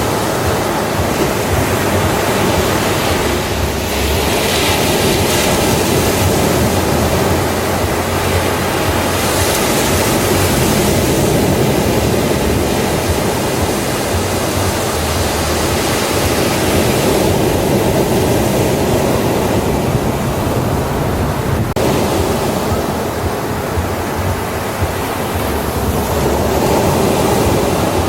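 Ocean waves breaking on a beach: a steady rush of surf that swells and eases slowly.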